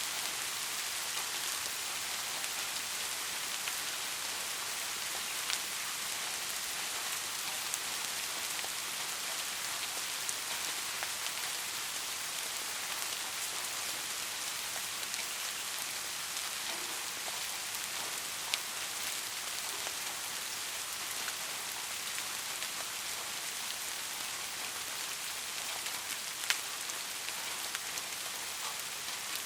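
Steady rain falling on a surface, an even hiss with scattered individual drops ticking, a few of them sharper.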